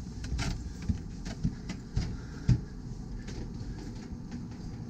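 Footsteps on a boat: a few dull thumps about half a second apart, over a steady low hum.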